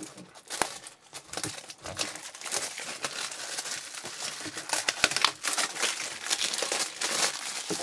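Packaging of a sealed trading-card box crinkling and tearing as it is opened by hand, a dense run of crackles and small snaps.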